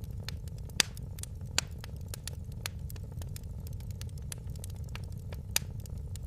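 Fire crackling in a fireplace: a steady low rumble of flames under a quick scatter of small snaps, with three louder pops, two in the first two seconds and one near the end.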